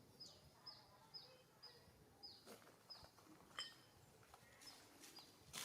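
A bird calling faintly: a run of short, high chirps, each falling in pitch, repeated about twice a second, with a few faint clicks or rustles among them.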